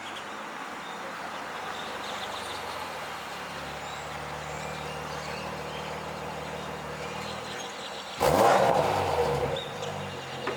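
Steady outdoor hiss with faint bird chirps. About eight seconds in, a car engine comes in loudly with a quick rising rev, then eases off.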